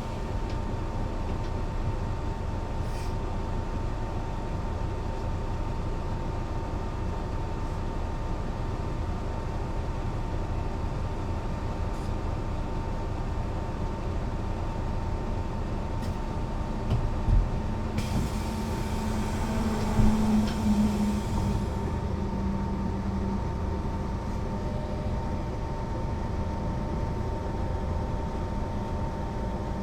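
Mercedes-Benz O 405 NÜ bus running steadily, with an even whine over the drive noise. About seventeen seconds in there are a few knocks and a hissing noise that lasts a few seconds.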